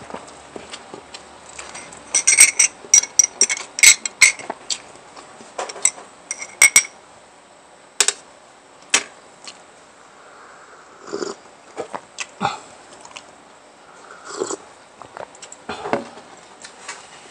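Metal spoon and fork clinking and scraping against a plate in a quick run of bright, ringing taps, followed a few seconds later by softer, wet chewing and mouth sounds while eating.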